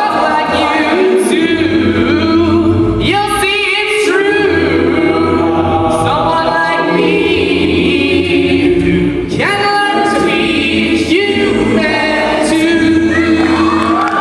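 A cappella vocal group singing in close harmony, several voices over a sung bass line, with no instruments.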